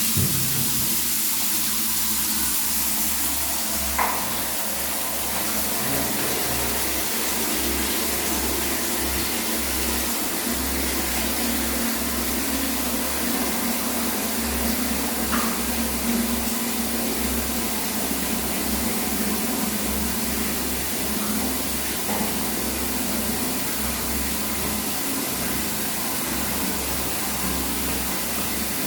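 Water spraying in a steady rush, with a few faint knocks.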